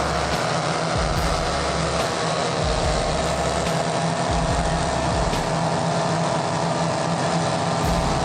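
An engine running steadily at an even pitch and level.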